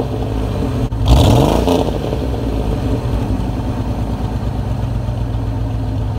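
Car engine revved briefly about a second in, then settling to a steady idle.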